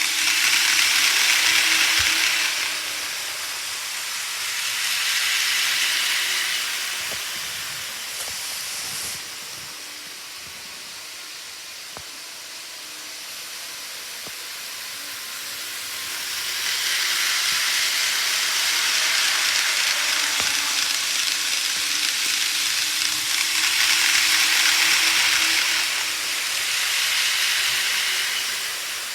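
Model trains running on the layout's track: the rolling hiss of wheels on rail swells and fades in several waves as the trains pass close by and move away, with a faint motor hum underneath.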